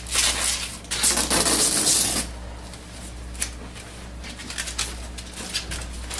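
Protective plastic film being peeled off a printer's glossy body, loud crinkling and tearing for about two seconds. Then quieter rustling with scattered light clicks as the film is handled.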